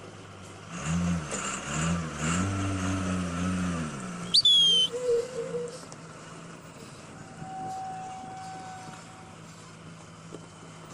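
Logging truck engine running, its pitch rising and falling between about one and four seconds in, then a brief, loud high-pitched squeal about four seconds in.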